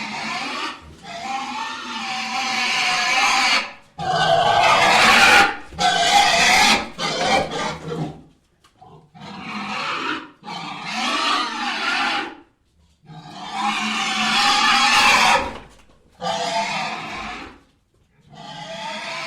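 Sound-effect pig squeals, of the kind used for dinosaur squeals, in a run of about seven harsh, screechy cries. Each lasts one to three seconds, with brief pauses between them.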